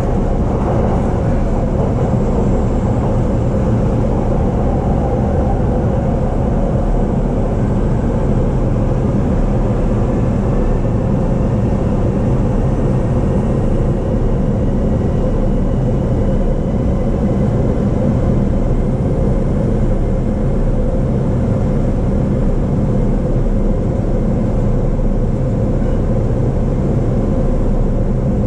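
Inside a JR East E233-series electric commuter train running along the line: a steady rumble of the wheels on the track. A faint whine rises slowly in pitch through the middle.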